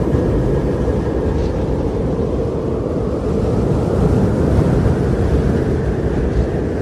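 Steady, loud rushing noise of outdoor nature ambience, heavy in the low end and unbroken throughout.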